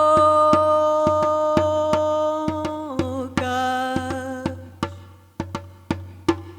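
A woman singing fado holds one long note, slides to a second held note about three seconds in and lets it fade about a second and a half later. Under the voice runs a steady beat of sharp taps, about three a second, which carries on alone after the singing stops.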